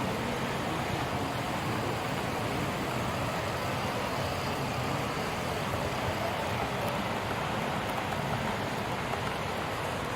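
O scale two-rail model diesel train running on the layout: a steady, even running noise of wheels on rail and motor.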